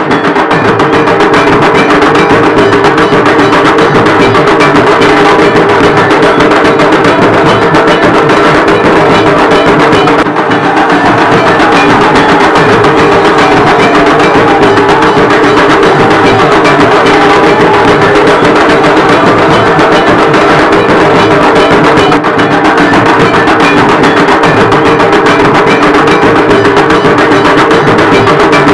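Loud, fast, continuous drumming with an unbroken rhythm.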